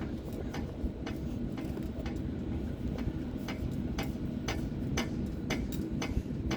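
A Union Switch & Signal teardrop crossing bell shaken by hand, its clapper striking the bell in irregular dings, a few a second, over a steady low rumble.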